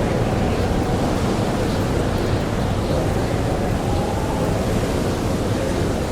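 Blizzard wind blowing steadily, a dense rushing noise with a faint wavering howl through it.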